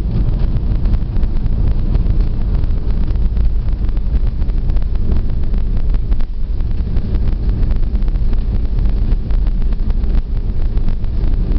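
Loud, steady low rumble of an Airbus A320 heard from inside the passenger cabin, with many small irregular rattles and clicks through it.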